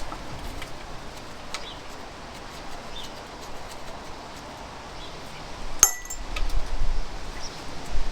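Light metallic tool clinks and ticks while the sump bolts are being undone on a classic Fiat 500 engine, with one sharp, ringing metal clink about six seconds in.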